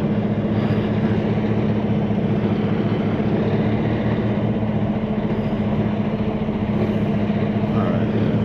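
Semi-truck diesel engine running steadily, one unchanging note.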